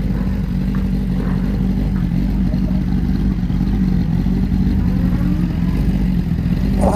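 Kawasaki ZX-10R inline-four engine running at a steady speed, its pitch holding even throughout.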